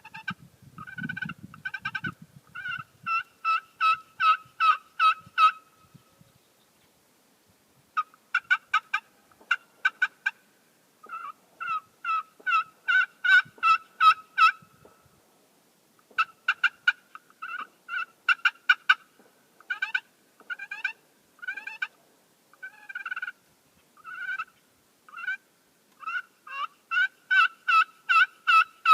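Custom turkey pot call played with a hickory striker, scratching out runs of hen-turkey yelps. Some runs are slow, spaced notes and others quicker, with short pauses between them.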